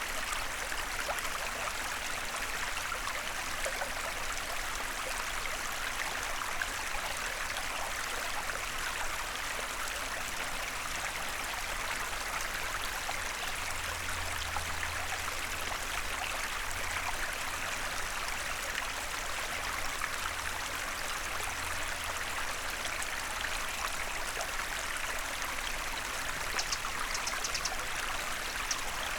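Small forest stream flowing steadily over stones, an even rush of water. A faint low hum rises under it for several seconds about halfway through.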